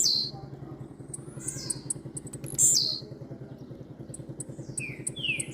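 A blue-black grassquit (tiziu) sings its short, sharp, falling song note a few times, loudest near the middle, and near the end gives a quick run of lower falling chirps. A steady low engine-like hum runs underneath.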